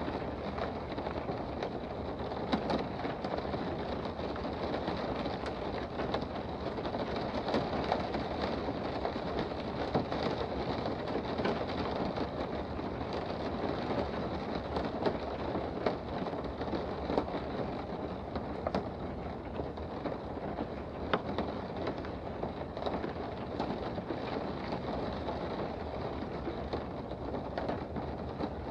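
Steady rain heard from indoors: an even hiss of rainfall with scattered individual drops ticking sharply throughout.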